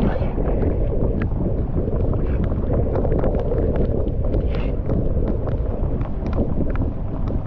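Steady rush of water pouring through a cleared drain or culvert, with small splashes and clicks throughout.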